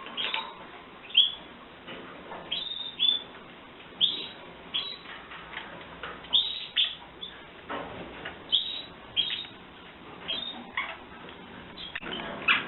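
Canaries chirping: short, high calls scattered through, many of them quick downward sweeps.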